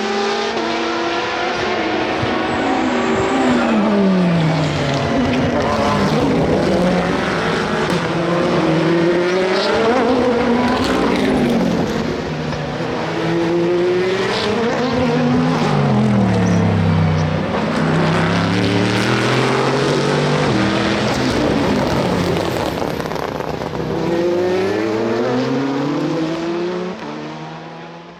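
Several endurance race cars passing one after another and overlapping, engines falling in pitch through downshifts as they brake for a slow corner, then rising again as they accelerate away. The sound fades out near the end.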